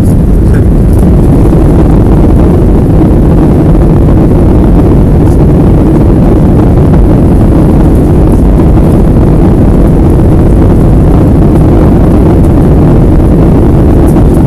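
Steady, loud drone of an airliner in flight, heard inside the cabin: engine and airflow noise with no change in pitch.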